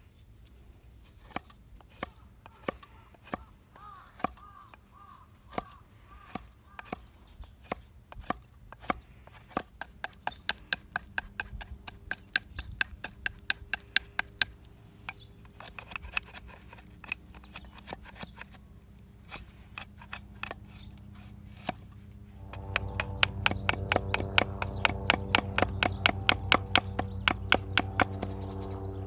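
A hand tool striking dead pine wood in repeated sharp knocks, about one or two a second at first and then quicker, about three a second. Near the end, background music with steady held tones comes in under the knocking.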